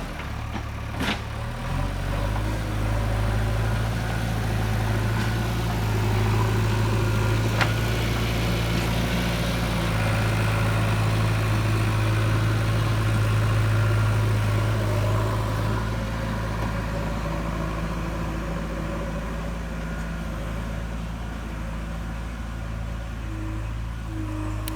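A JCB 3DX backhoe loader's diesel engine runs steadily while the front loader bucket cuts soil. The engine grows louder through the middle as it works, and there are two sharp knocks, about a second in and again near eight seconds.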